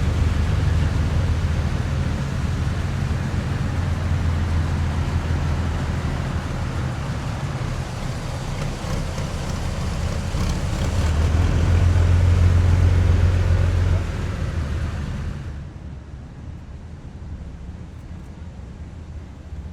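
Heavy military vehicles driving past in a column, a deep engine rumble with road noise above it. It swells to its loudest about twelve seconds in, then drops off sharply a few seconds later, leaving a quieter low rumble.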